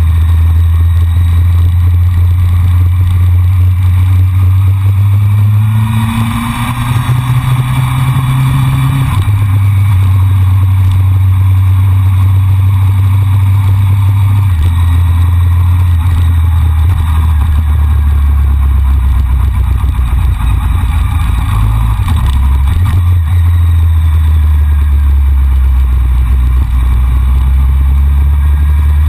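A Honda CBR600F4i's inline-four engine running at road speed, heard from a camera mounted on the bike. Its note steps up and down several times, with wind rushing past the microphone, loudest a few seconds in.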